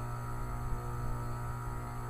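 2010 Tempstar heat pump outdoor unit running with a steady, deep hum from its compressor.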